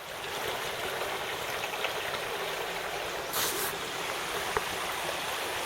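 Rain-swollen creek water rushing steadily over and through a cinder-block dam, with a brief louder hiss a little past halfway.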